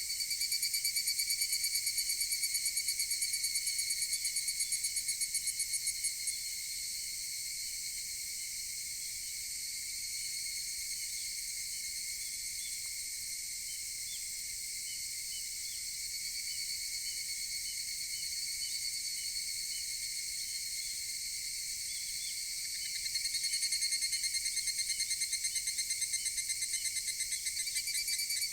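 Higurashi (evening cicadas, Tanna japonensis) singing. A near one calls in a rapid pulsing series for about six seconds at the start and again from about 23 seconds in, over a steady high chorus of more distant cicadas.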